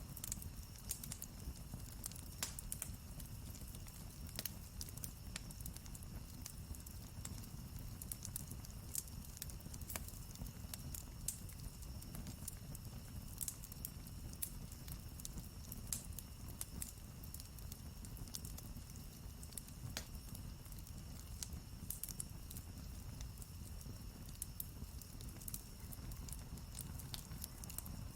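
Wood campfire crackling: irregular sharp pops and snaps over a low steady rumble of the burning fire.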